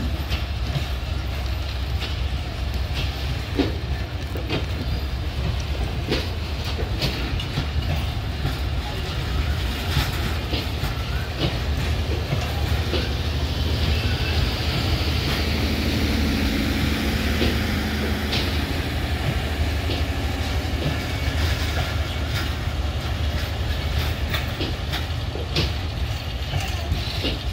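Passenger train coaches rolling along the rails, wheels clicking over the rail joints over a steady low rumble, growing somewhat louder and hissier about halfway through.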